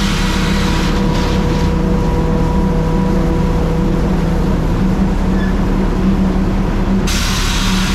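Truck's diesel engine running steadily under load, with a burst of loud hiss at the start and again near the end.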